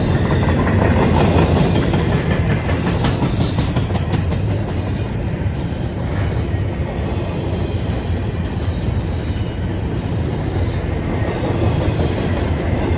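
Cars of a CSX intermodal freight train rolling steadily past, a continuous rumble with wheels clacking over the rail joints, the clatter thickest a few seconds in.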